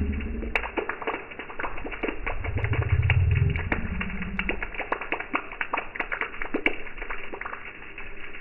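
Many irregular taps and clicks, with a low drawn-out cooing-like call about three seconds in.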